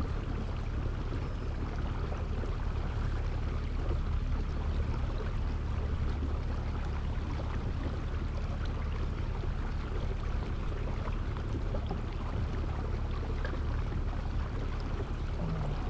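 Steady low rumble with a hiss of moving water and wind around a kayak on the lake.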